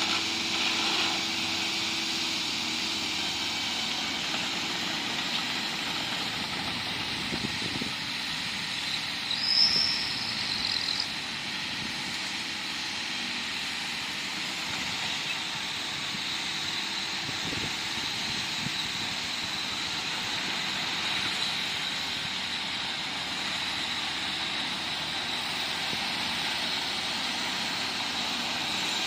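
Bulldozer diesel engine running steadily under work, with a brief high-pitched squeal about ten seconds in.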